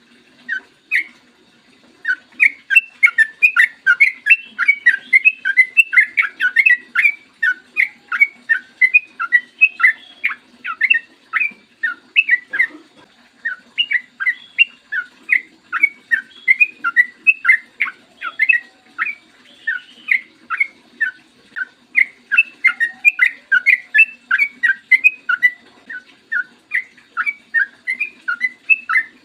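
Yellow-vented bulbul (trucukan) singing a long, fast run of short whistled chattering notes, several a second, with brief pauses about a second in and midway. A faint low hum sits underneath.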